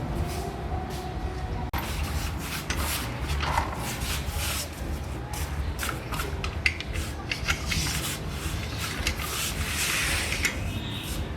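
Small go-kart engine running steadily, with scraping and clattering knocks over it.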